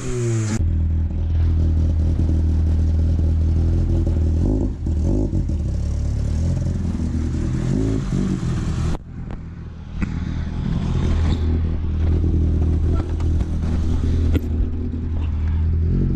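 Honda B18 four-cylinder engine, freshly swapped into a Civic EF, running at fairly steady revs after a fall in pitch at the start, with a short drop in loudness about nine seconds in before it picks up again.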